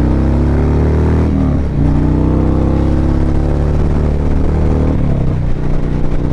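Harley-Davidson V-twin motorcycle engine accelerating hard through the gears. The pitch climbs, drops at a shift about a second and a half in, climbs again, and drops at another shift near the end.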